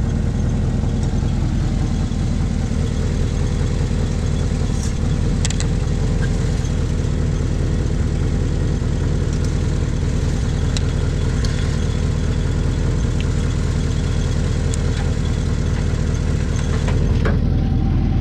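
Cammed truck engine idling steadily while warming up, with no lifter tick, and a few light clicks over the running engine.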